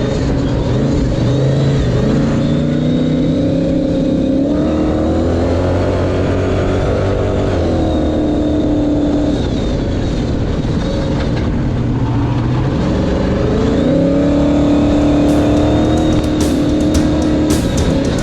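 Ford Ranger pre-runner race truck's engine heard onboard, its pitch climbing and dropping several times as the driver accelerates and lifts off.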